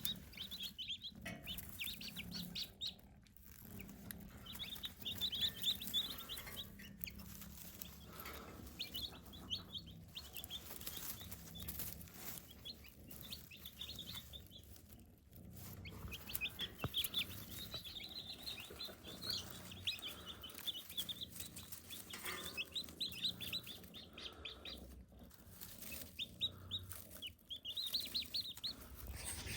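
Newly hatched chicks peeping: runs of short, high chirps that come and go throughout.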